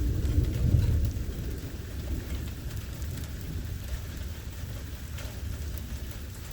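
Thunderstorm: heavy rain falling with a deep rumble of thunder that is loudest in the first second or so and then eases off under the steady rain.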